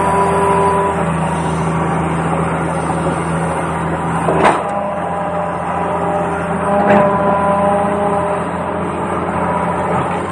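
Small electric motors and plastic gearboxes of a toy RC excavator whining, their pitch shifting and cutting in and out as different functions are driven, with two sharp knocks about four and a half and seven seconds in.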